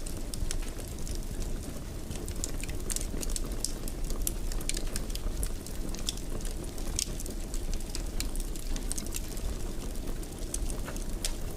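Wood fire in a fireplace crackling, with irregular sharp pops and snaps over a steady low rumble of the burning.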